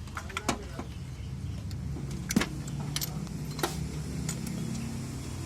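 Car engine idling steadily, with several sharp metallic clicks and clinks over it, the loudest about halfway through.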